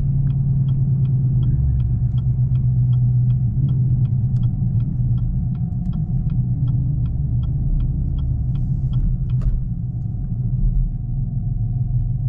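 Straight-piped Camaro V8 with headers rumbling steadily at low speed, heard from inside the car. A light, regular ticking, about three ticks a second, runs over it and stops near the end.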